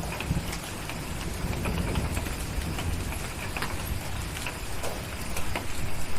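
Steady rain with scattered sharp crackles and pops from a wood fire, over a low rumble.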